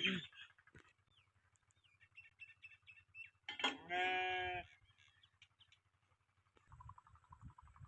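A goat bleats once, a single pitched call lasting about a second, starting about three and a half seconds in; small birds chirp briefly before it.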